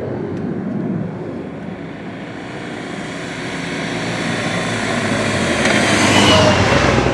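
Airplane flying past, growing louder to its loudest about six seconds in, with a faint falling pitch as it passes, then starting to fade.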